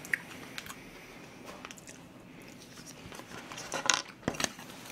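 A man chewing a mouthful of fried rice close to the microphone: soft, wet mouth sounds, with a short cluster of sharp clicks and smacks about four seconds in.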